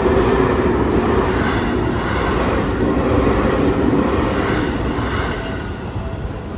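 Seibu 6000 series electric train passing a level crossing close by: a loud, steady rumble of wheels on rail that fades near the end.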